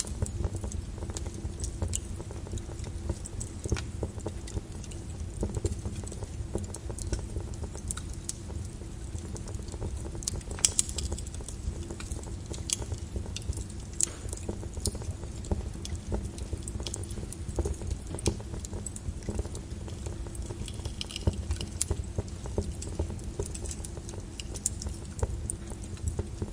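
Flowing lava crackling, with many small clinks and snaps scattered irregularly over a steady low rumble.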